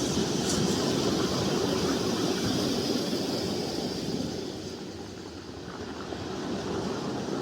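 Long audible exhalation through a narrowed throat, a steady rushing hiss like ocean surf, for the qigong kidney healing sound. It thins out about four to five seconds in, then the breath builds again near the end.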